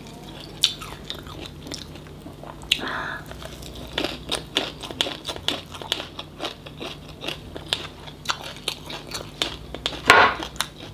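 Close-up chewing of a mouthful of small, soft-shelled crustaceans (tôm nhủi) eaten whole in a leaf wrap: a run of wet clicks and soft crunches, with a louder mouth sound about ten seconds in.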